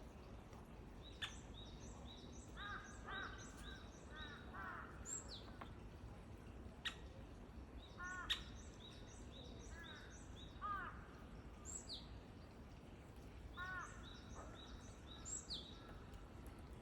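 Wild birds calling over a low background rumble: runs of short, high chirps and groups of three or four lower, harsh calls in quick succession, with a few sharp single notes.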